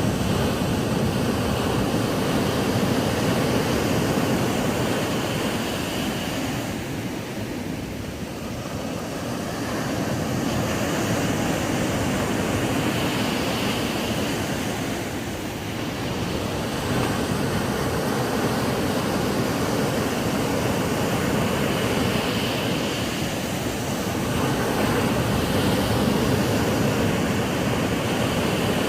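Ocean waves breaking on a sandy beach: a steady wash of surf that swells and ebbs slowly, easing off briefly twice before building again.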